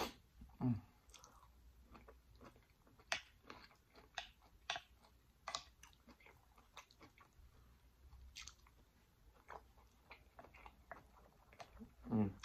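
Close-miked wet chewing of a mouthful of food, with many small irregular mouth clicks and smacks. A brief low hum comes from the eater about a second in and again near the end.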